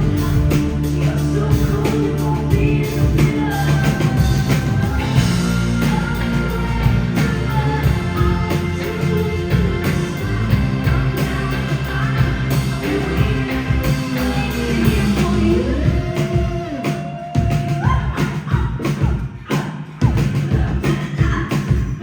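Live rock band playing, with sustained sung notes gliding over the band. A little past the middle the low end thins out and the drum hits stand out more.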